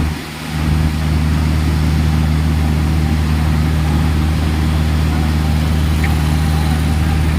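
A vehicle engine running steadily with a low, even hum that dips briefly just after the start. It sits over a constant rushing noise.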